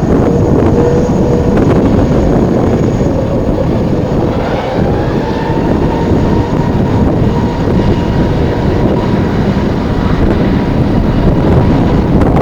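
Jet airliner engines running loudly with a thin steady whine over a dense rumble, mixed with heavy wind buffeting on the microphone.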